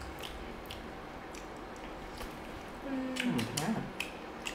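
Soft chewing and mouth sounds of people eating, with small clicks of wooden chopsticks against ceramic bowls. A brief hummed voice sound about three seconds in.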